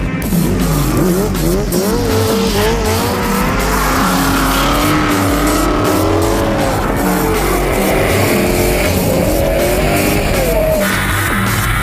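Car engine revving up and down through drifts, with tyre squeal, over background music with a steady beat.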